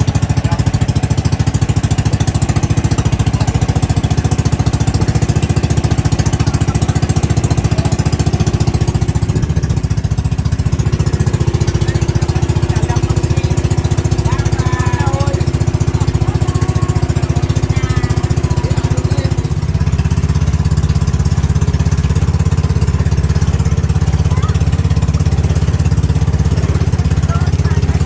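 Small boat engine running steadily with a fast, even firing pulse; it gets a little louder about twenty seconds in.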